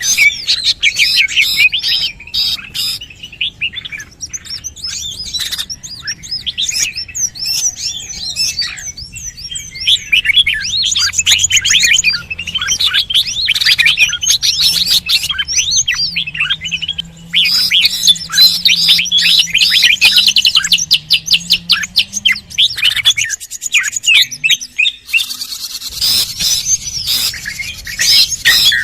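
Bird-lure recording of small birds chirping and twittering rapidly and high-pitched in dense runs, with a short thinner stretch near the end.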